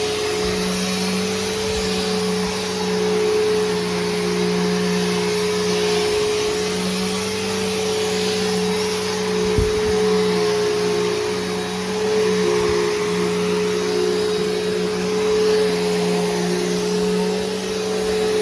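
Bissell Powerforce Helix Turbo upright vacuum cleaner, fitted with a new brushroll and belt, running steadily: a constant motor hum with a whine above and a rushing hiss, swelling a little now and then. A single brief knock about halfway through.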